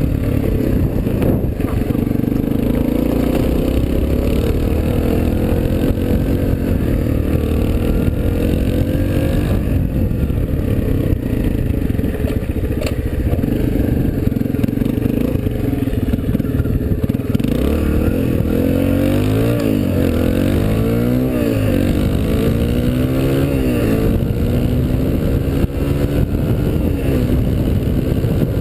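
Suzuki DR-Z125L dirt bike's single-cylinder four-stroke engine running under way, its pitch rising and falling with the throttle and gear changes. About two-thirds of the way through come several quick rises and falls in pitch as the throttle is worked.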